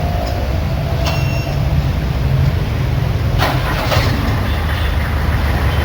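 Car engine running steadily with a low rumble while hydrogen-oxygen gas is fed into it to burn off carbon deposits. A short hiss sounds about three and a half seconds in.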